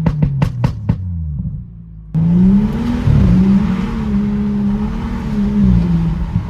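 BMW N55 turbocharged straight-six with its muffler deleted, letting off after a rev: it gives a quick run of five or six sharp exhaust pops (burbles) in the first second. About two seconds in, it gives way abruptly to a steady, deep exhaust drone at cruise, with road and wind noise.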